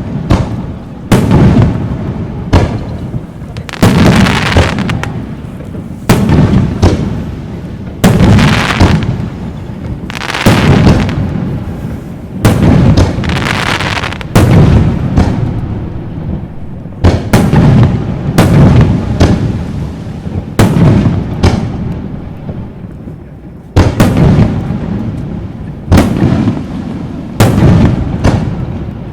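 Aerial fireworks shells bursting in quick succession, a loud bang every second or two, some followed by crackling that trails off. The bangs ease briefly about three quarters through, then start again.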